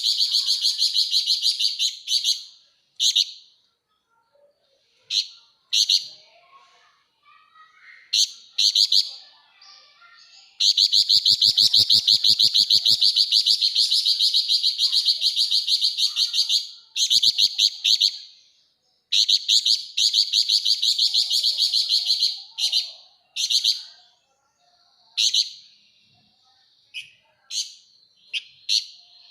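Javan fulvetta (flamboyan) giving rapid, dense chattering trills: long unbroken runs of quick high notes, the longest lasting about six seconds near the middle, broken up by short bursts and brief pauses.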